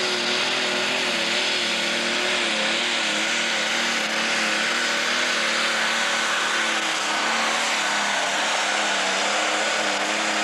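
Pro stock pulling tractor's diesel engine running flat out under heavy load through a pull down the track, a loud, steady drone whose pitch wavers slightly.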